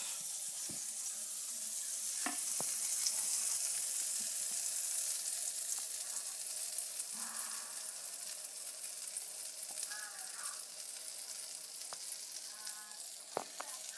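Pancake batter sizzling as it is poured from a bowl into a hot greased skillet: a steady high hiss that swells a little after a couple of seconds and then slowly fades, with a few light clicks.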